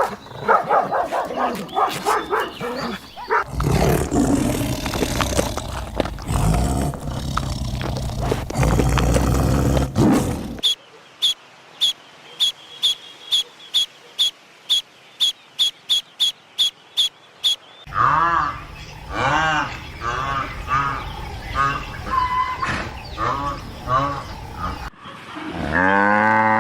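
A string of different animal sounds one after another: short yelping calls, then a long, loud, low roar, then a run of sharp high clicks at about two or three a second, then pitched calls that glide up and down, and near the end a cow starts mooing.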